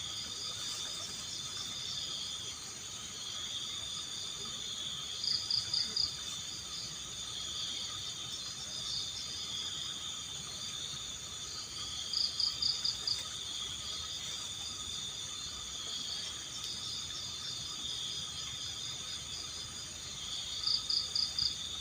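Night chorus of crickets, a steady high-pitched trilling. A louder pulsed chirp, a quick run of several beats, comes in three times, about seven seconds apart.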